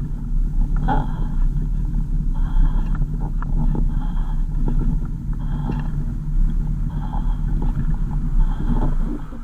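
A car on the move: a steady low engine and road rumble, with scattered light clicks and rattles.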